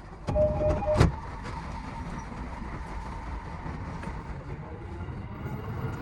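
Running noise of a JR East E233 series electric train heard from the driver's cab, a steady low rumble. Near the start a short two-tone beep sounds for about half a second, followed by a sharp click about a second in.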